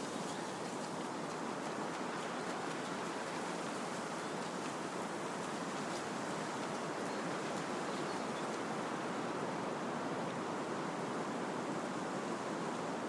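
Wind blowing steadily through trees, a continuous rushing of leaves and branches.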